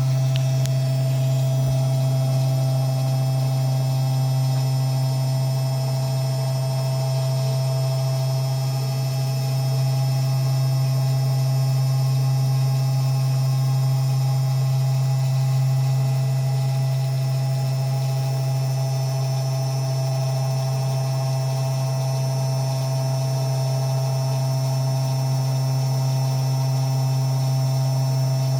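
Small desktop CNC engraver running a slow, shallow engraving pass with a V-groove bit: a steady low hum with fainter, steady higher whines above it.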